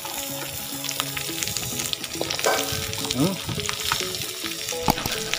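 Pork, squash and sautéed onion and garlic frying in a wok: a steady sizzle with many scattered little crackles.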